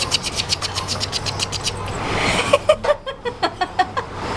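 Rapid, even clicking, about eight clicks a second for nearly two seconds. Then comes a pause, then scattered clicks mixed with short, high-pitched blips.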